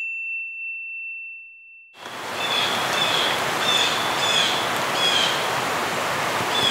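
A high ringing tone from the logo sting fades out over the first two seconds. Then outdoor ambience comes in: a steady hiss with a bird calling over it in short, high chirps, repeating a little more than once a second.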